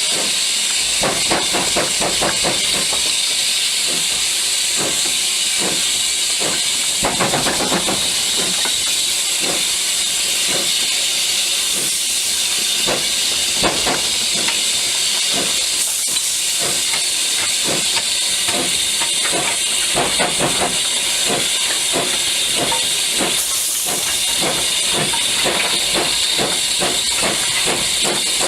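Steam locomotive hissing steadily, with irregular metallic knocks and clanks throughout.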